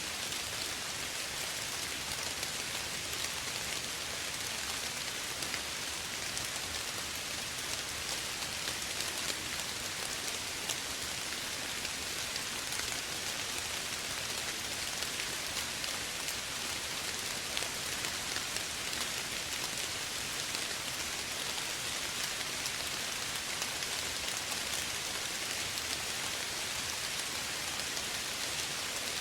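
Steady soft rain falling, an even hiss with many small drop patters.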